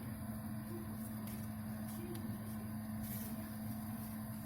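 Electric air blower built into a grill's firebox running steadily with a constant low hum, blowing air to get coals and firewood going.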